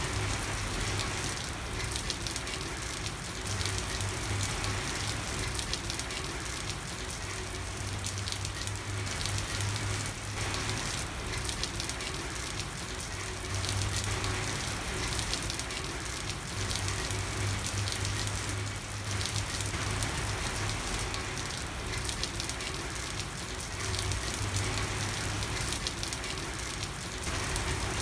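Steady rain falling on a street, an even hiss of drops, with a low hum that comes and goes every few seconds.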